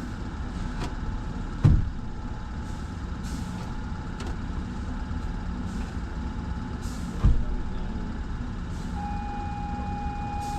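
Steady low mechanical drone, broken by two heavy thumps about two seconds and seven seconds in. Near the end a steady high beep-like tone comes in.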